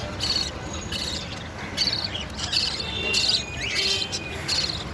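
Budgerigars chirping in short repeated chirps, a few a second, with a rising chirp about three and a half seconds in, over a steady low background noise.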